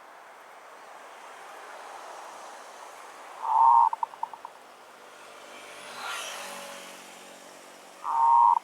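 Zebra dove calling twice, about three and a half seconds in and again near the end: each call is a loud coo followed by a short run of staccato notes. A vehicle passes about six seconds in.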